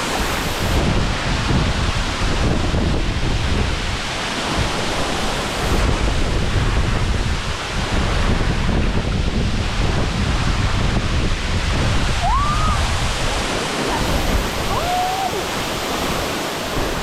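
Steady rushing of a waterfall, with gusts of wind buffeting the microphone. A couple of short whistled calls, the first rising, come about three-quarters of the way through.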